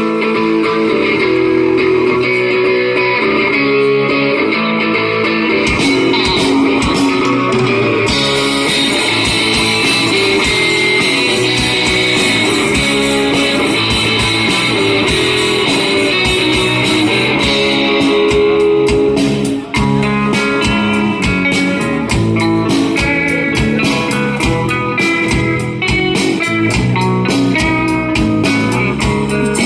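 Live rock band playing the instrumental intro of a song: electric guitar over bass and drums, with cymbals and drum hits growing busier from about eight seconds in.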